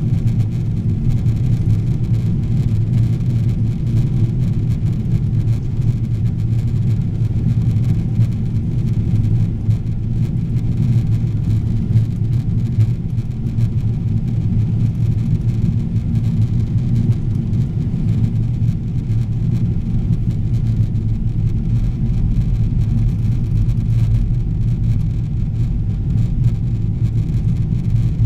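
Steady low drone of engine and airflow noise inside the cabin of a Boeing 777-300ER airliner on its landing approach.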